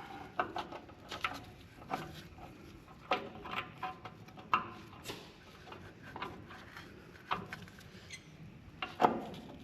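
Hand work on a dump truck's rear drum brake: irregular light clicks and taps as the wheel cylinder rods are lined back up with the brake shoes, with a sharper knock near the end.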